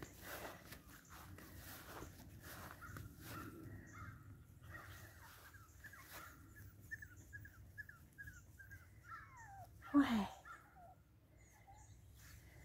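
Birds calling outdoors: a run of short chirps repeated about three times a second, ending in a few falling notes, then a short, louder call about ten seconds in.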